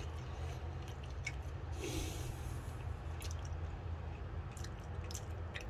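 A person chewing a mouthful of homemade meat cutlet close to the microphone, with soft, irregular mouth clicks over a steady low hum. There is a brief hiss about two seconds in.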